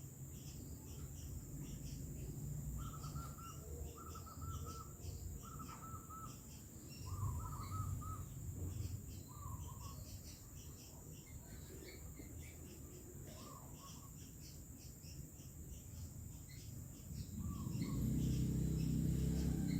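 Birds calling: a series of short warbling calls repeating for several seconds in the first half, with faint high chirps throughout. Near the end a low rumble builds up.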